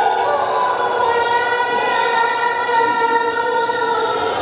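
A young voice singing, holding one long note that fades out near the end.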